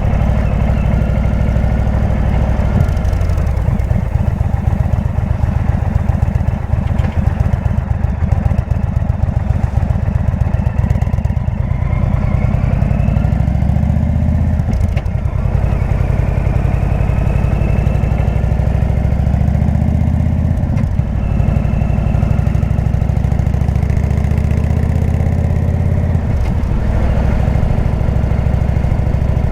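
Indian V-twin motorcycle engine with a Jekill & Hyde exhaust running under way. Its pitch climbs with the throttle and drops sharply at gear changes, about three times in the second half.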